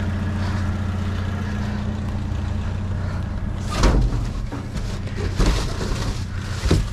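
Vehicle engine idling with a steady low hum, with a few loud thumps about four, five and a half, and seven seconds in.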